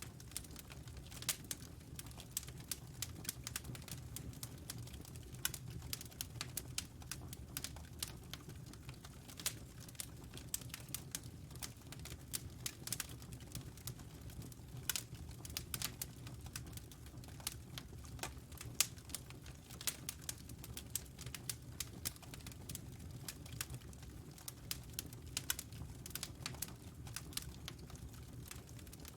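Wood fire crackling in a fireplace: an irregular, continuous stream of sharp pops and snaps over a low, steady rumble.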